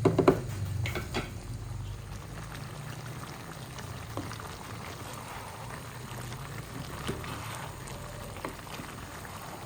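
A pot of chicken stew bubbling on the stove, with a few sharp clicks in the first second or so.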